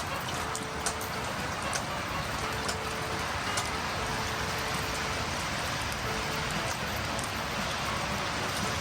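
Steady rushing of running river water, with a few small sharp crackles in the first half.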